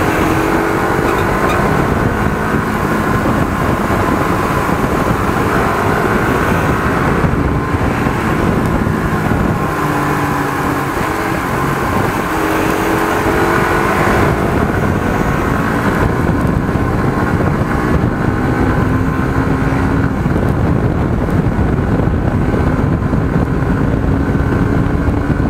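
Suzuki GSX-R150's single-cylinder engine accelerating through the gears, its pitch rising several times and dropping back at each upshift, with wind rushing over the microphone.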